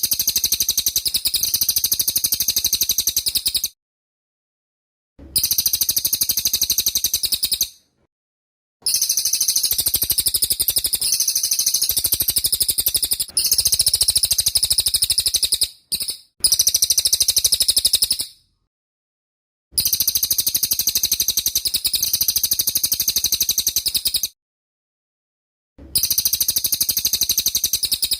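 A cililin bird singing in the rapid-fire 'tembak' style. It gives long, very high-pitched, machine-gun-fast trills in phrases of a few seconds, each cut off by a sudden short gap of silence.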